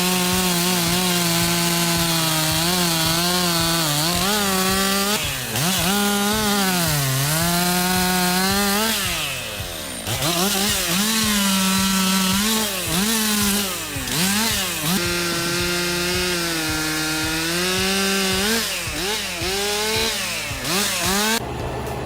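Chainsaw running at high revs through wood, its engine pitch dipping under load and recovering again and again as the chain bites. It slows and picks back up about halfway through. Near the end it cuts off abruptly into a steadier, lower engine hum.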